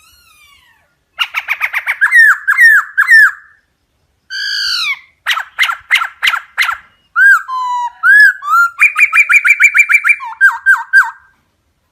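Bird calls: rapid series of chirps and sweeping whistled notes in several short bouts separated by brief gaps.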